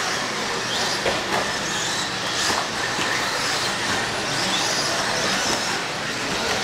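Several electric RC stock trucks racing on the track, their motors whining and rising and falling in pitch as they speed up and slow down, with tyre and chassis noise and a couple of sharp ticks about a second in.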